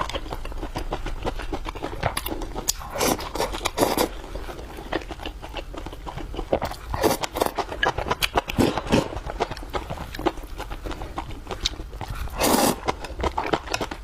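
Close-miked chewing, a dense run of wet mouth clicks and smacks, with a few louder mouthfuls.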